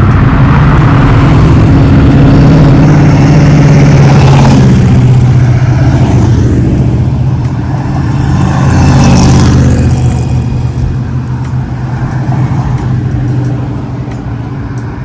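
Loud car engine running with a steady deep drone, swelling briefly about nine seconds in and then easing off toward the end.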